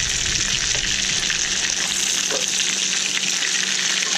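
Whole prawns frying in butter and minced garlic in a frying pan, giving a steady sizzle.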